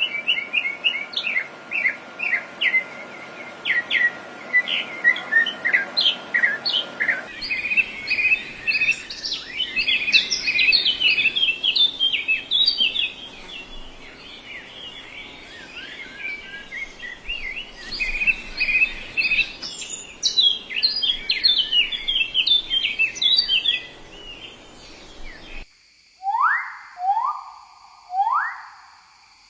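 Several small birds chirping and singing in quick, overlapping short notes. Near the end the sound changes abruptly to a different bird giving a series of falling calls, about one a second.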